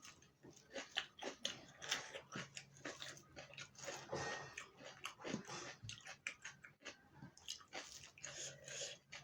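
Close-miked ASMR eating: chewing and biting food with rapid, irregular wet mouth clicks and smacks.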